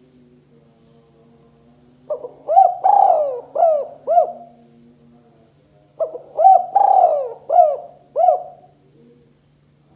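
Spotted dove cooing: two phrases of about five arching coos each, the first starting about two seconds in and the second about six seconds in. A faint steady high-pitched tone runs underneath.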